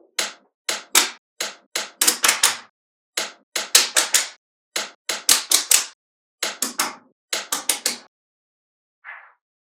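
Small magnetic balls snapping together and being placed onto a magnet-ball model, a run of sharp clicks in quick clusters of two to four, with short pauses between. The clicking stops about eight seconds in.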